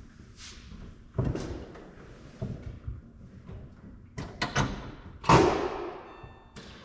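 A car door being handled and shut as someone gets in: a series of thumps and knocks, the loudest a door slam about five seconds in.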